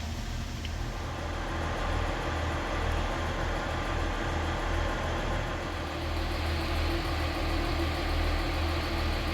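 An engine running steadily with a low rumble and a held hum above it, getting a little louder after about a second and a half.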